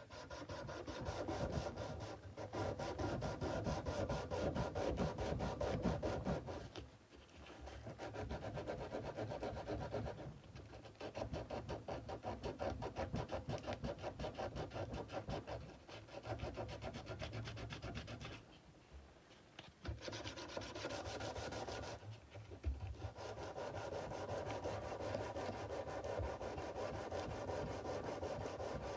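Sandpaper rubbed back and forth by hand along the steel blade of a Nepalese kukri, in quick, steady strokes broken by a few short pauses.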